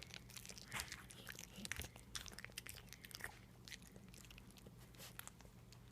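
Miniature pinscher chewing banana: faint, quick clicks of its mouth working the fruit, thickest in the first half and thinning out later.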